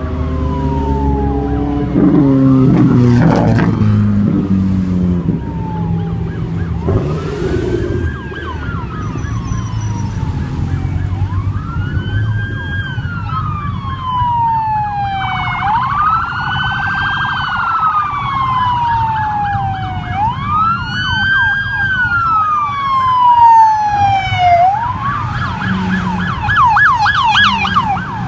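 Emergency vehicle siren in street traffic, wailing in slow rising and falling sweeps and switching to a fast yelp near the end. Car engines run underneath, loudest as one revs about two to four seconds in.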